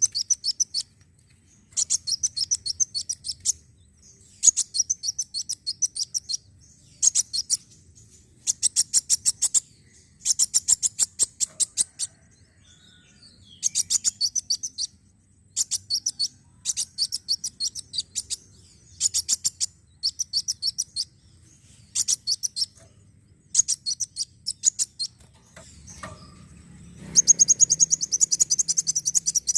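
A sunbird, known to Indonesian bird-keepers as kolibri wulung, singing phrase after phrase of rapid, high-pitched ticking chirps. Each phrase lasts a second or two with short pauses between, and the last phrase, near the end, is denser and louder.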